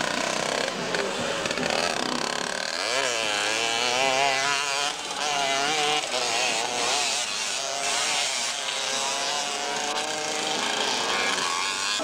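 Two-stroke motocross motorcycle engines running hard, their pitch rising and falling again and again as the riders rev up and ease off.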